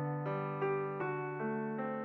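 Soft background piano music: single notes struck about every half second over sustained low notes, each fading after it is played.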